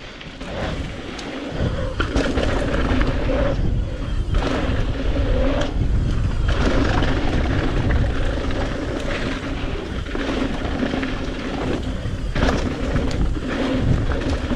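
Strong wind buffeting the microphone over a mountain bike rolling fast on dirt. The rolling noise drops out briefly about four and six seconds in.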